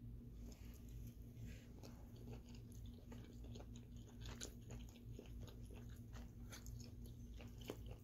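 A person chewing a mouthful of chicken parmesan and spaghetti close to the microphone: faint, irregular wet mouth clicks and smacks starting about half a second in, over a steady low hum.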